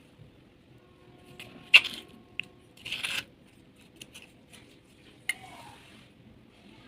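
Dry baked clay pieces crunching and snapping in a few separate crisp cracks, the loudest a sharp snap about two seconds in and a longer crumbling crunch about a second later.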